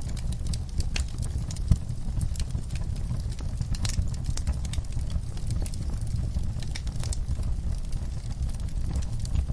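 Wood fire burning in a fireplace: irregular crackles, pops and snaps over a steady low rumble of flames, with one louder pop just under two seconds in.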